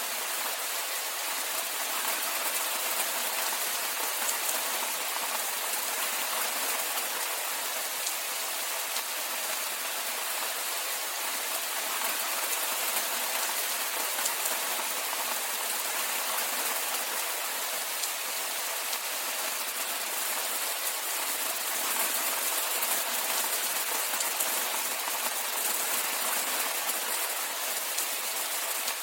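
Steady rainfall: an even hiss of rain with fine, dense patter of drops.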